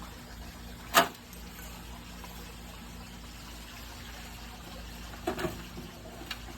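Dirt being poured into a container: a steady faint pouring hiss, with one sharp knock about a second in and softer knocks near the end.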